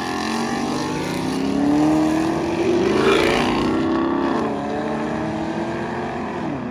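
A car engine revving: its pitch climbs gradually to a peak about three seconds in, then drops back and runs steadier.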